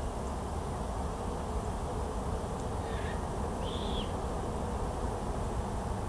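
Steady low outdoor rumble, with a small bird giving two short high calls about halfway through.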